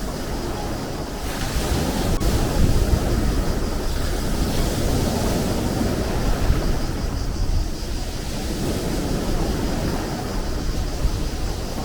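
Sea waves breaking and washing on the shore, the surf swelling twice and easing off, with wind rumbling on the microphone.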